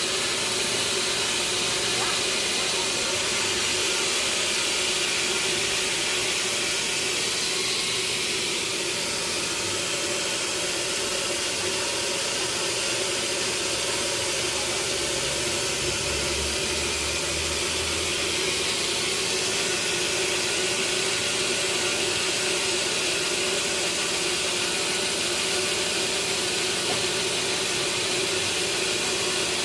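Sawmill saw machinery running steadily on teak: a constant hissing noise over a steady hum.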